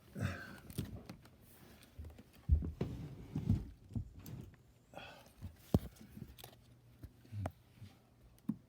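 Irregular footsteps and knocks on an old wooden floor: scattered low thuds with a few sharper clicks, uneven in spacing.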